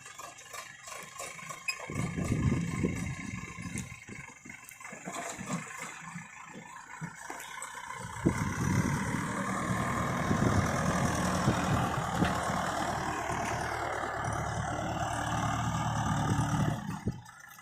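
Diesel engine of heavy loading machinery running, getting louder at about two seconds, easing off, then louder and steady again from about eight seconds until it drops away just before the end.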